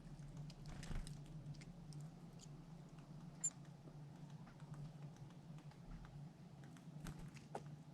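Faint scratching and tapping of a squirrel at a feeder, scattered small clicks over a steady low hum, with one short high squeak about halfway through.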